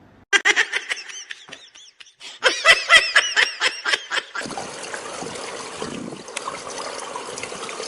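Rapid bursts of high-pitched laughter for about four seconds, then a steady background hiss.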